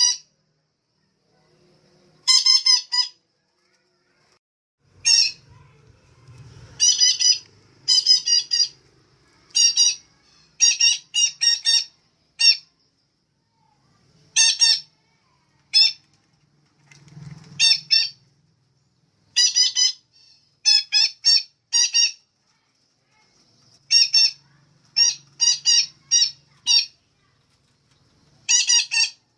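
Female betet parakeet (red-breasted parakeet) calling: short, harsh, high squawks in quick groups of one to five, repeated every second or two.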